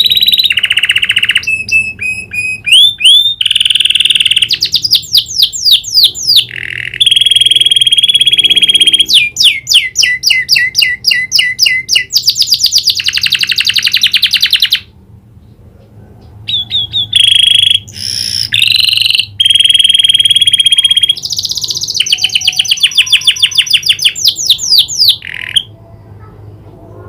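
Domestic canary singing in loud, rapid trills and fast runs of repeated high notes, a song trained with prenjak (prinia) phrases. It breaks off briefly about halfway through and stops near the end.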